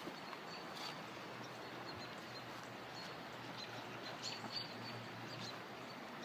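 Creek water running steadily over sandstone ledges and small cascades, with a few short high chirps over it, clustered about four to five seconds in.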